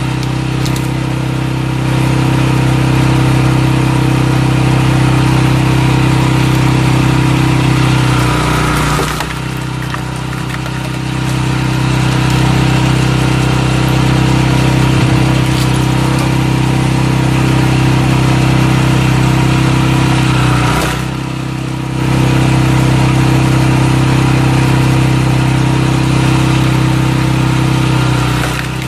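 Small engine of a walk-behind cultivator running steadily while it drives a firewood splitter. Its note drops in pitch and level three times, about 9 s in, about 21 s in and near the end, before picking back up, as the engine takes the load.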